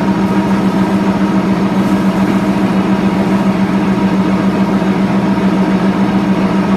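An engine running steadily at constant speed, with a strong unchanging hum.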